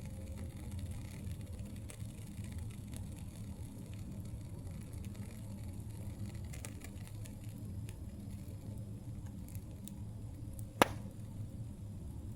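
Campfire burning: a low steady rumble of flames with faint scattered crackles, and one loud, sharp pop near the end.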